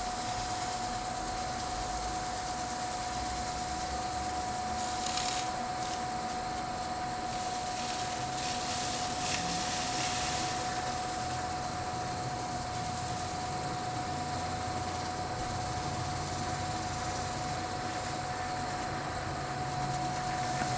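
Wood lathe running steadily with a constant motor whine, while a cloth buffs wax on the spinning bowl, adding brief swells of soft hiss about five and ten seconds in.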